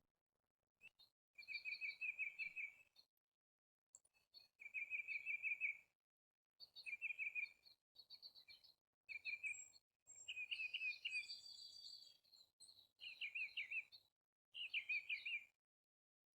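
Red-headed woodpecker giving rapid rattling churr calls, in repeated bouts of about a second each with short pauses between.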